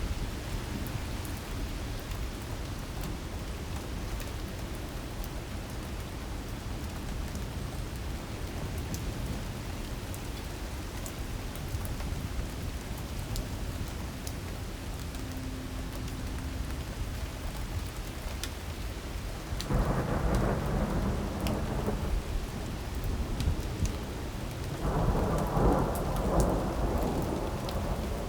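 Heavy rain pouring steadily in a storm, with fine ticks of drops striking. Two louder rumbling swells rise over it, about two-thirds of the way in and again near the end.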